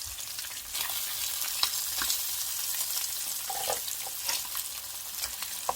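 Slices of Spam frying in oil in a pan, a steady sizzle with scattered crackles and pops.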